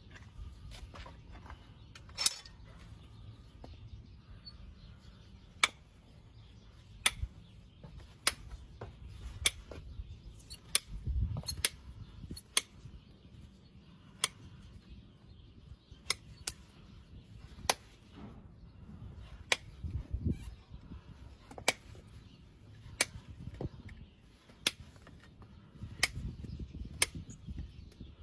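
Hoof-trimming tools cutting into a horse's hoof: a string of sharp, irregular clicks and snaps about once every second or so, over low background noise.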